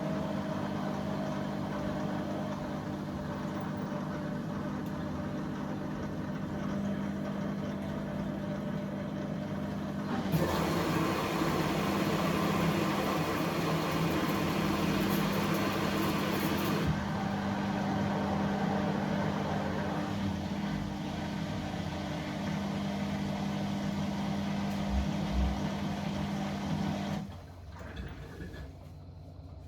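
Dishwasher running a quick wash cycle: the pump motor hums steadily under the sound of spraying water. A louder, hissier spell of water runs from about ten to seventeen seconds in, and the motor cuts off suddenly near the end.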